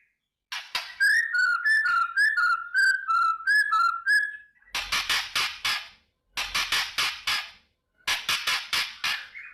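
White-rumped shama (murai batu) singing: a run of clear whistled notes around one pitch for a few seconds, then three bursts of harsh, rapid rattling (kretekan), each about a second long.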